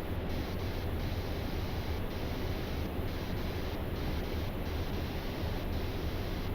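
Steady rushing flight-deck noise of a Boeing 777-300ER in flight on approach: airflow and cabin air-conditioning hiss with a low rumble underneath.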